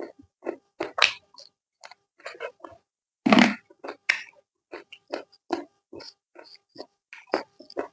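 Close-miked eating sounds of a person chewing spicy chicken: wet chewing and lip smacks in an irregular run, with one longer, louder smack about three seconds in.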